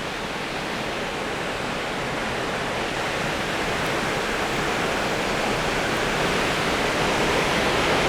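Waterfall's steady rush of falling water, growing gradually louder.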